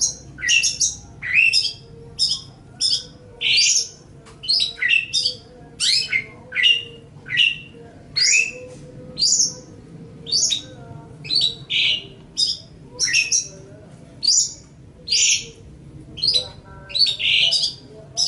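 Long-tailed shrike (cendet) singing: an unbroken string of short, harsh, chattering notes, about one to two a second.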